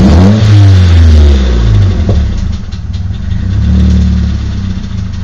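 Nissan SR20DET turbocharged four-cylinder engine revved by a throttle blip that rises and falls over about two seconds, then a smaller rev near four seconds in, dropping back to idle between. At idle it carries the knocking/tapping that goes away above 1250–1500 rpm, which the owner suspects comes from the VCT gear.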